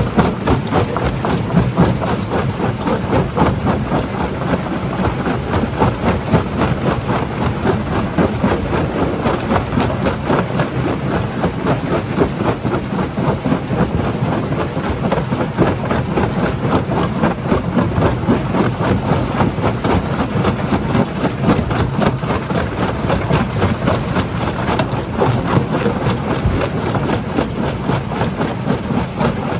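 Stone-crushing jaw crusher running steadily, a loud, continuous mechanical din with a fine rapid rattle and no breaks.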